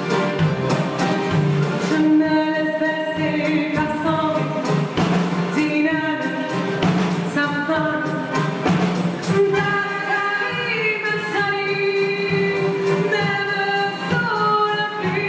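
Live band performance: singing in held, gliding notes over instrumental accompaniment with a steady beat.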